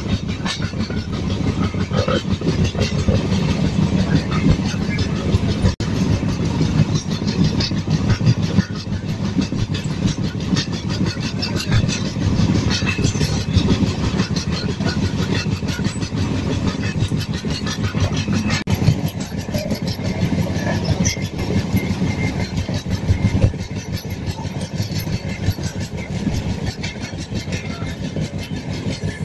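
Train running along the track, heard from inside a coach: a steady low rumble of wheels on the rails, packed with quick clicks and rattles.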